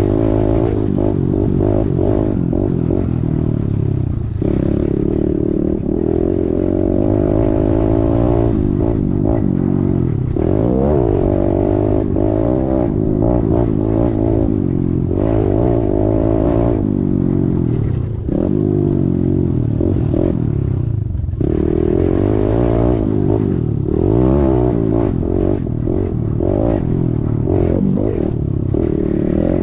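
Kawasaki KLX110's small single-cylinder four-stroke engine revving up and down over and over under race throttle, with brief dips in between.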